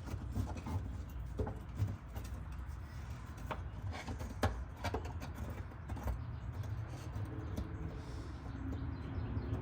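Scattered light clicks and taps of hand work on car parts, with a steady low hum underneath.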